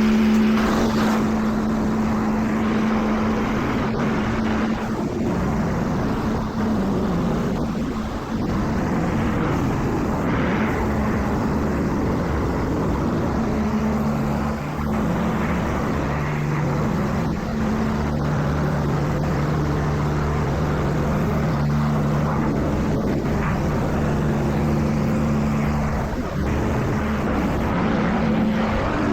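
Car wash machinery running: a steady motor hum over a continuous rushing noise, with a second, lower hum joining about halfway through.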